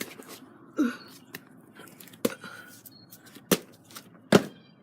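A handful of sharp clicks and knocks about a second apart, the last one the loudest, with a short squeak about a second in: objects being handled and set down.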